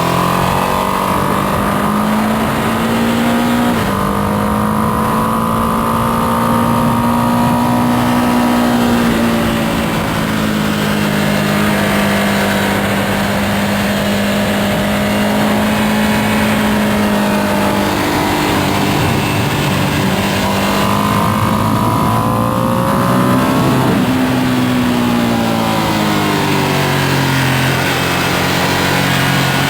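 Ducati Panigale V2S V-twin on its stock exhaust, run hard on track. The engine note climbs through the revs, breaks briefly at upshifts and drops when the rider brakes and downshifts, over a steady rushing noise.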